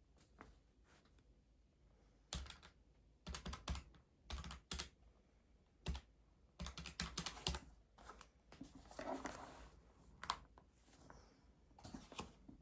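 Quick key presses in irregular clusters of clicks, with pauses between bursts, and a brief rustle about nine seconds in.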